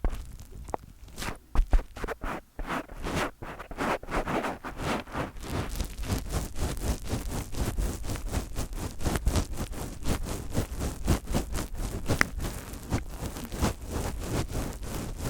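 Fingertips scratching and rubbing directly on a microphone, a string of short scratchy strokes, uneven at first and dense and rapid from about four seconds in.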